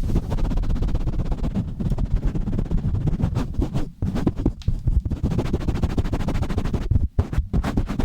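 Fast, rough scratching and rubbing directly on a microphone, a dense run of quick strokes with a low, muffled body, breaking off briefly about four seconds in and again around seven seconds.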